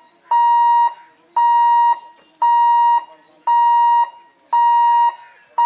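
Level crossing warning alarm beeping: a steady, high electronic tone about half a second long, repeating about once a second, which warns that a train is approaching.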